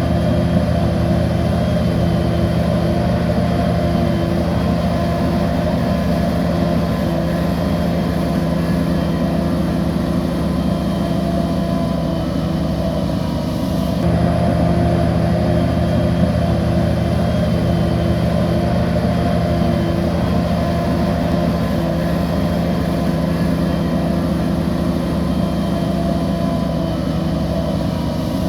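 Bulldozer's diesel engine running steadily under load, with an abrupt change in the engine note about halfway through.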